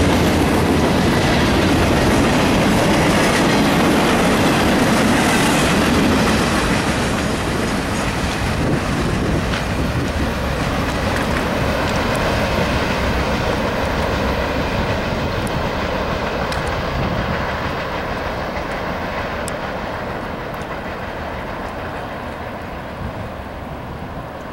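Freight train cars rolling past at close range. After about six seconds the sound begins to fall away, fading steadily as the end of the train moves off down the track.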